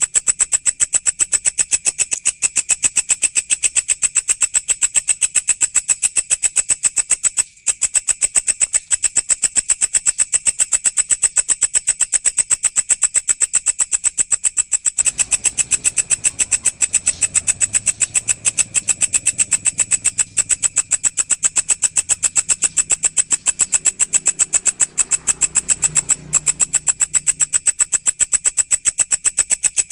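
A walang, a singing grasshopper-type insect, calling in a steady, rapid pulsing trill, high-pitched and continuous, with a brief break about seven seconds in.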